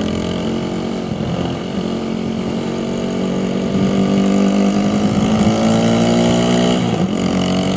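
Motorcycle engine running while riding, its pitch climbing slowly as the bike speeds up, then dipping briefly near the end, with wind noise underneath.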